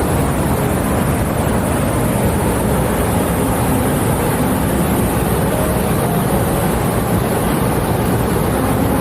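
Waterfall: a steady, loud rushing roar of falling water.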